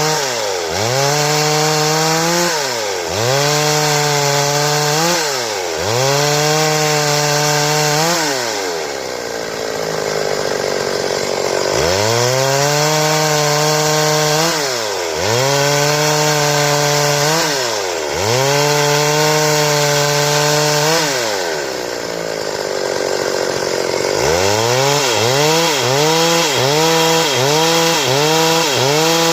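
Stihl two-stroke chainsaw cutting wood: the engine repeatedly revs up to a held high speed and drops back, about every three seconds, with two longer spells at lower speed partway through.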